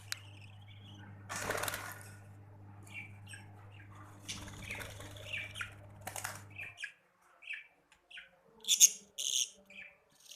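Budgerigars chirping in short, scattered calls, with two longer noisy bursts in the first half. A low steady hum stops about two-thirds of the way through, and the loudest chirps come near the end.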